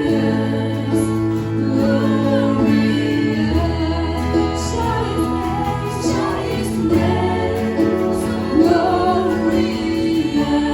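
Christian worship music: voices singing together over instrumental backing with held low notes that shift every few seconds.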